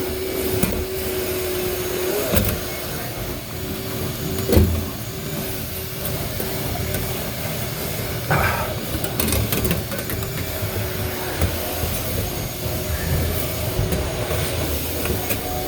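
Small vacuum cleaner running steadily with a constant motor hum, broken by a few sharp knocks about two, four and eight seconds in.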